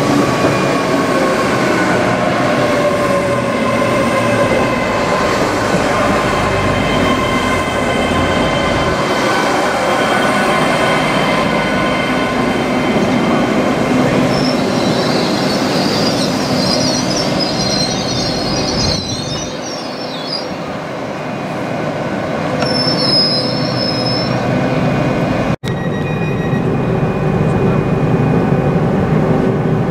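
GWR Hitachi Intercity Express Train running along a curved platform, its wheels squealing in several steady high tones over the running noise of the train. A harsher high squeal comes in about halfway through and again a few seconds later. After a sudden break near the end, a steadier low rumble of the train follows.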